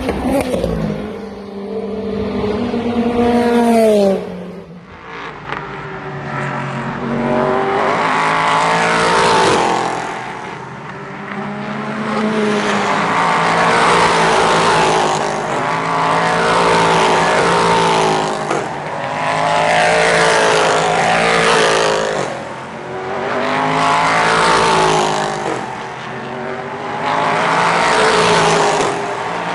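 Racing cars passing one after another, engines rising in pitch through repeated upshifts, with the note dropping as a car goes by a few seconds in and the loudness swelling and fading with each pass.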